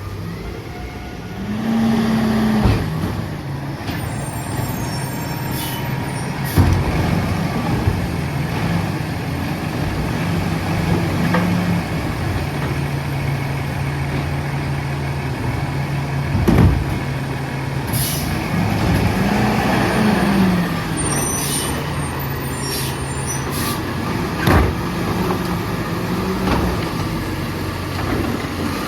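Diesel engine of a Freightliner M2 side-loading garbage truck with a Labrie Automizer arm, idling and speeding up twice as its hydraulics work. Sharp bangs, a few high squeals and hisses sound over the engine, typical of the arm handling and dumping a cart and of the air brakes.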